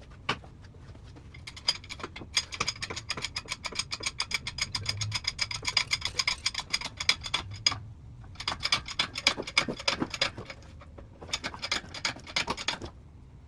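Hand ratchet clicking rapidly and ringing, in three runs, the first the longest.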